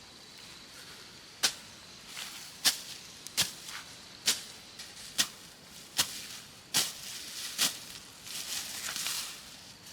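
A series of about eight sharp knocks or strikes, roughly one every 0.8 seconds, followed near the end by a brief rustle.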